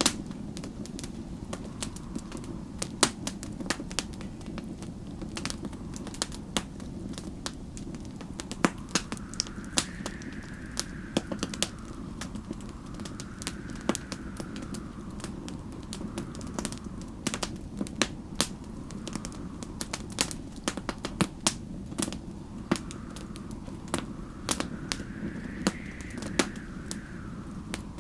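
Fireplace crackling with frequent sharp pops over a steady low rumble, with storm wind howling softly in rising and falling gusts a few times.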